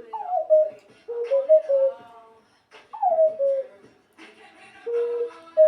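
Ocarina played by ear in short phrases of a few notes, several sliding down in pitch, following along with a pop song.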